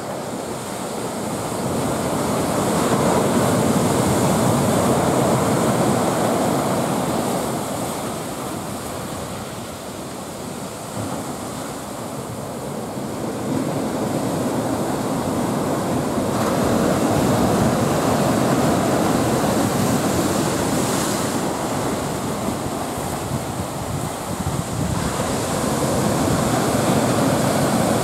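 Heavy surf from a typhoon swell breaking and washing along the shore, a steady roar of water that swells and eases every several seconds, with wind on the microphone.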